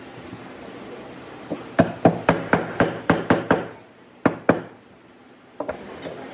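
Hammering on wood: a quick run of about eight sharp blows, then two more after a short pause, and a fainter pair near the end.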